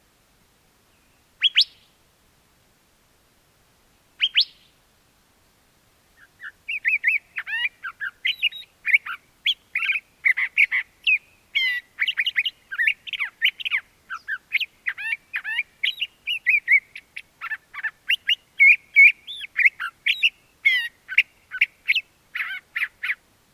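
Curve-billed thrasher calling and singing: two sharp, rising whistled calls a few seconds apart, then a long, continuous song of quick, varied warbled phrases.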